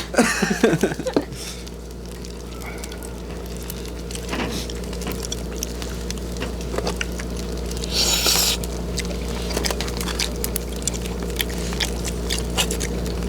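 Quiet eating at a table: small scattered clicks and scrapes of chopsticks and dishes and some chewing, over a steady electrical hum. A brief rustle comes about eight seconds in.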